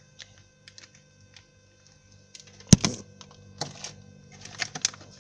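Scattered clicks and knocks of food packages being handled on refrigerator shelves, the loudest a single sharp knock a little before the middle, over a faint steady hum.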